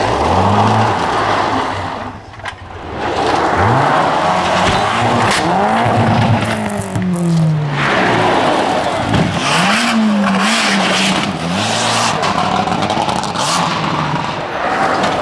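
Rally car engines revving hard as the cars go by, the pitch climbing and dropping again and again with gear changes and throttle lifts, over loud tyre and road noise. The sound dips briefly about two seconds in.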